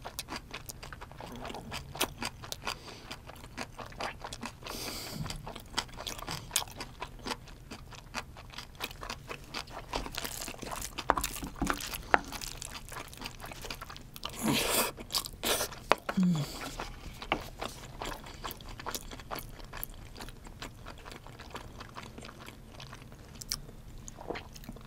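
Close-miked chewing of rice mixed with king crab innards and meat: a steady stream of small wet clicks and crunches. About two-thirds of the way through, a wooden spoon scrapes inside the crab's shell.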